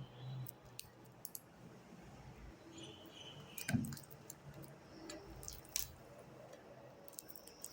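Sticky fluffy slime being squeezed and kneaded by hand: scattered soft squishes and small clicking pops, the loudest about halfway through.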